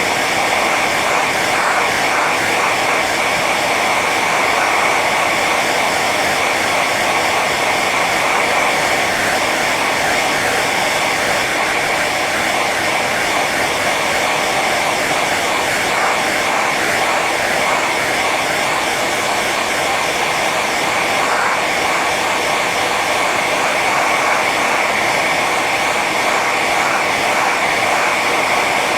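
Hair dryer running steadily on its high setting: an even rush of blown air with a steady whine from the motor and fan.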